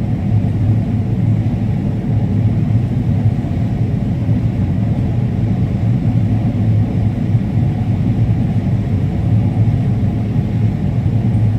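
Combine harvester running steadily under load while harvesting corn, a constant low machine rumble.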